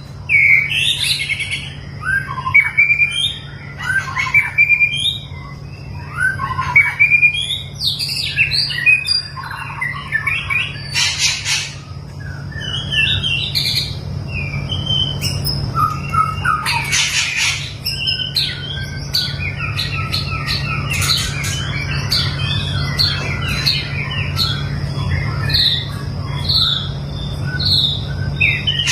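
White-rumped shama (murai batu) singing a varied song of whistled phrases and rapid chirps, broken by a couple of harsh calls. A steady low hum runs underneath.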